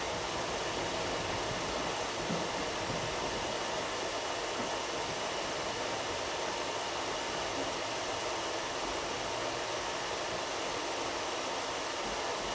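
Steady, even rushing hiss inside an air-conditioned railway coach: the air-conditioning and the running train blended together, with no clear wheel beats.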